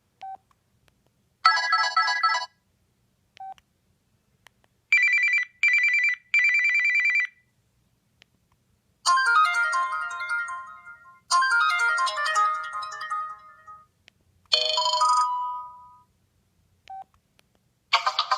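Samsung Chrono r621 cell phone playing a run of short electronic ringtone and alert-tone previews, one after another. There are about five brief melodic snippets of a second or two each, one of them three quick beeps, separated by silences and a few faint short blips.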